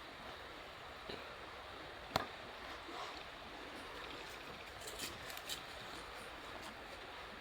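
Campfire burning with a steady hiss and scattered crackles, one sharp pop about two seconds in and a small cluster of clicks around five seconds in.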